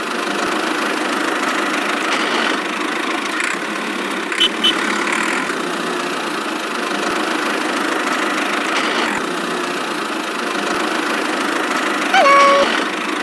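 A small motor running steadily with an even hum, with a couple of faint ticks. Near the end come short high pitched tones that glide.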